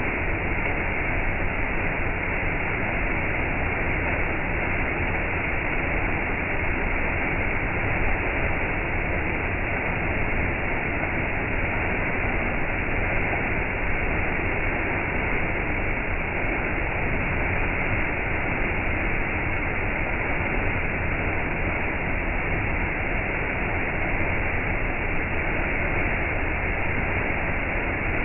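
Waterfall: falling water rushing with a steady, unbroken roar.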